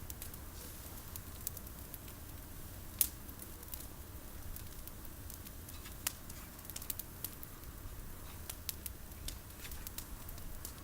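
Campfire of olive-tree branches crackling, with irregular sharp snaps and a louder pop about three seconds in.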